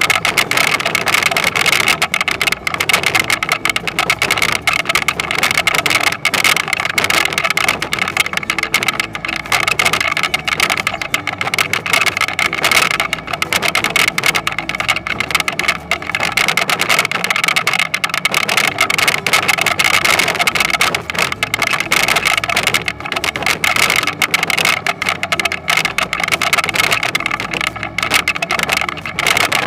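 Toyonoki potato harvesting machine running steadily: engine noise with a dense, constant rattle and a steady high whine.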